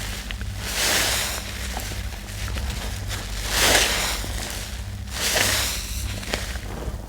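Wet, sudsy laundry-soap paste being squished and worked by hand, in three swelling swishes about a second to two and a half seconds apart with small wet clicks between them, over a steady low hum.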